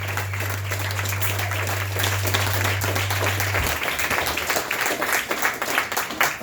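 Live audience applauding after a song, with a low steady note ringing under the clapping that cuts off about three and a half seconds in.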